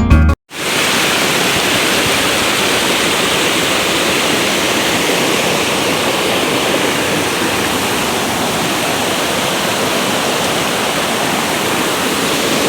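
Steady rush of water pouring over a small waterfall, continuous and unchanging, starting abruptly just under a second in.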